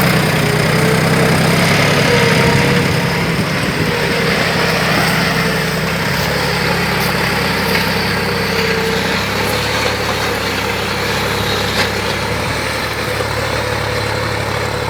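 John Deere 5105 tractor's three-cylinder diesel engine running steadily, with a faint wavering whine above the engine note.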